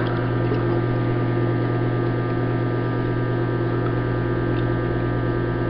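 Microwave oven running with a cookie inside: a steady electrical hum.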